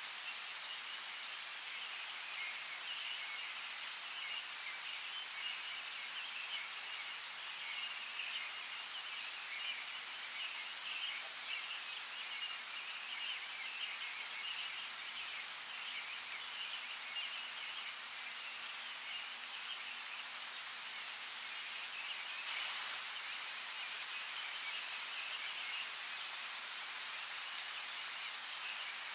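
Steady rain falling, with occasional single drops ticking sharply, and birds chirping busily over it.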